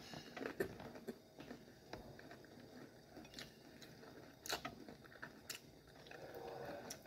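Faint chewing of a mouthful of cauliflower, with a few soft clicks scattered through.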